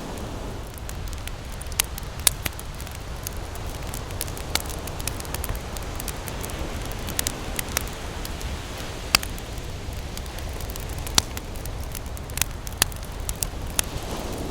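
Wood campfire crackling, with irregular sharp pops and snaps, a few louder than the rest, over a steady low rumble of ocean surf.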